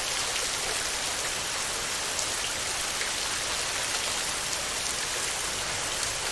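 Steady heavy rain on a tin roof: a constant hiss with scattered individual drops ticking through it.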